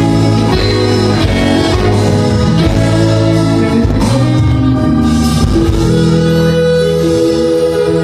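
Band music with guitar to the fore, played at a steady loud level. About six seconds in, the busy playing gives way to long held notes.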